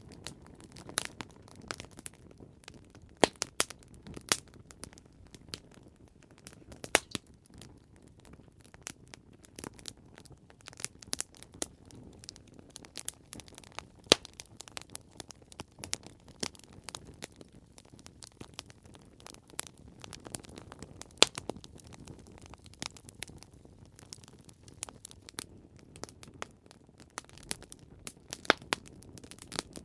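Campfire wood burning and crackling, with irregular snaps and a few louder pops over a low, steady hiss of the flames.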